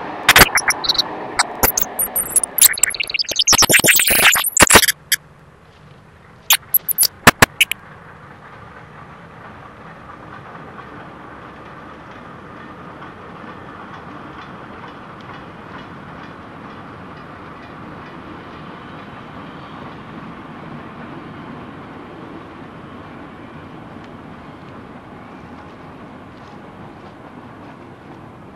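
Loud crackling pops and clicks for the first five seconds, with a few more about seven seconds in. Then a steady rumble of a steam-hauled vintage train with green and red coaches rolling past along the track, which cuts off just before the end.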